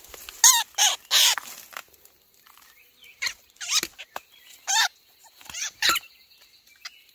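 A bird giving a series of short, harsh calls, about nine in all, in uneven clusters of two or three.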